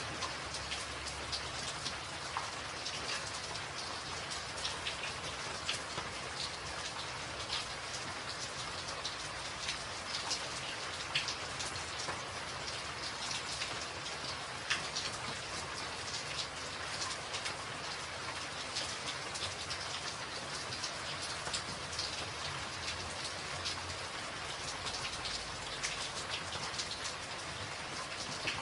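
Steady rain falling on a tin roof, with many distinct sharp drop strikes over an even hiss.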